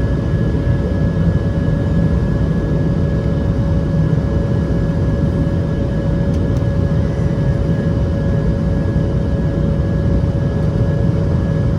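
Steady cabin noise of a jet airliner on approach to landing: an even low rumble of engines and airflow with two faint, constant whining tones.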